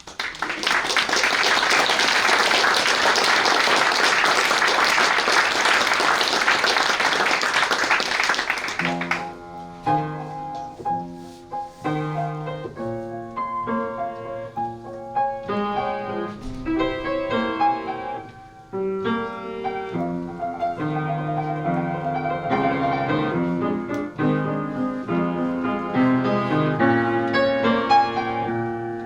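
Audience applauding for about nine seconds, then a solo acoustic piano playing a gentle interlude of single notes and chords.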